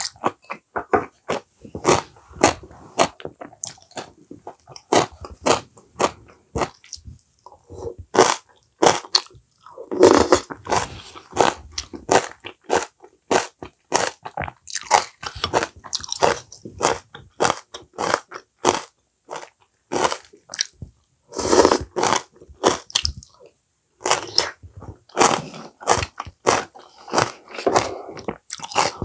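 A person chewing and crunching food close to a clip-on microphone: many quick, crisp crunches one after another, with a short pause near the end.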